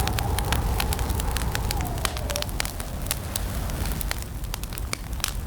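Campfire crackling: dense sharp pops and snaps of burning wood over the low rumble of the flames. A faint wavering tone sounds under it and fades out a little over two seconds in.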